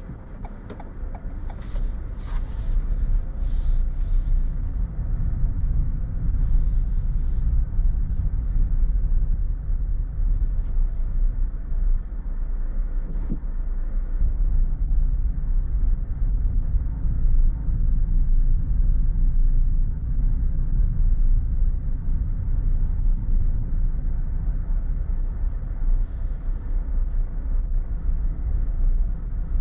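Car driving: a steady low rumble of engine and road noise that builds over the first few seconds, with a few short hissy sounds early on.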